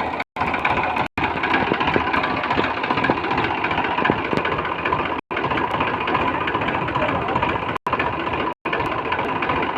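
Tractor diesel engine running steadily, cut by a few sudden, very brief dropouts in the recording.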